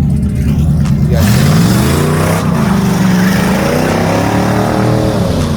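Car engine revving. Its pitch climbs about a second in, dips, climbs again and falls away near the end, over a steady low rumble.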